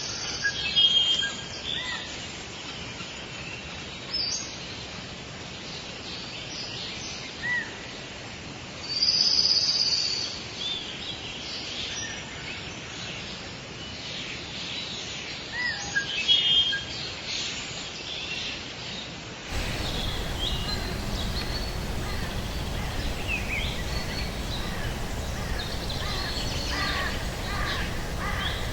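Forest bird chorus: several birds calling with short chirps, whistles and trills over a steady background hiss. About two-thirds of the way through, the sound switches abruptly to a denser chorus of chirps over a louder steady low rumble.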